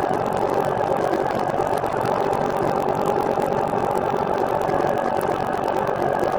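Steady running noise of a recumbent trike rolling along: tyre and drivetrain noise with a constant hum.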